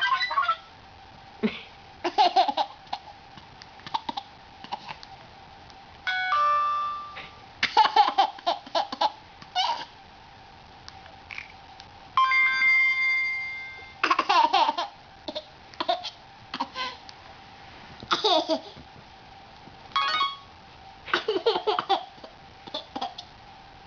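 Phone sound effects: a chime-like tone rings and fades about six seconds in and a longer one about twelve seconds in, with a toddler laughing in short bursts before, between and after them.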